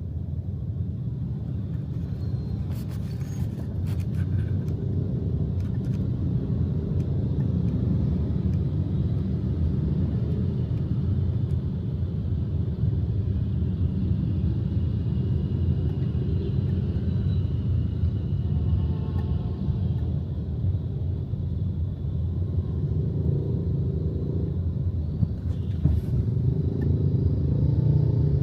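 Steady low rumble of a moving vehicle in road traffic, heard while riding, with a few brief clicks.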